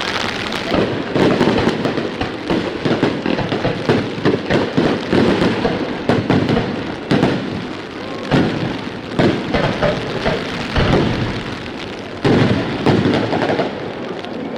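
Aerial fireworks bursting in a rapid barrage of booms and crackles, with a sudden loud burst near the end, over the steady hiss of heavy rain.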